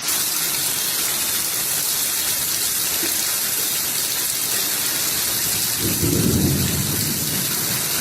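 Steady rushing noise, even and loud, with a low rumble about six seconds in.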